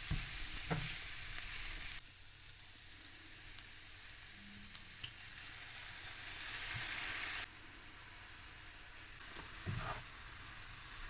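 Food sizzling in a hot frying pan, with a few light knocks of a utensil. The sizzle drops and rises abruptly, about two seconds in and again about seven seconds in.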